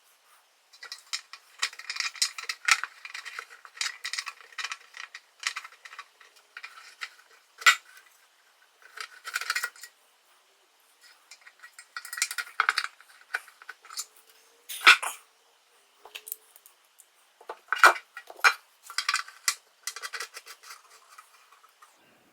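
Small metal parts and hand tools clicking and clinking against each other in irregular clusters, with a few sharper single clinks about 8, 15 and 18 seconds in.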